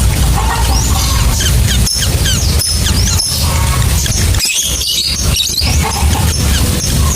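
Lovebird chattering: a rapid run of short, high, squeaky chirps and sliding calls, over a steady low rumble.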